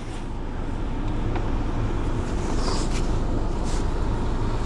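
Mazda car engine under hard throttle, pulling the car through deep snow. The sound rises over the first second, then holds steady.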